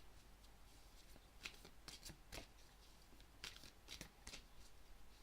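Tarot cards being handled on a table: a handful of faint, scattered card flicks and taps, with a faint low hum beneath.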